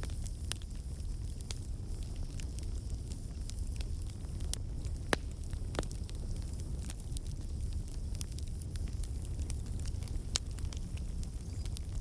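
Campfire burning, its wood logs crackling and popping irregularly over a low steady rumble of the flames.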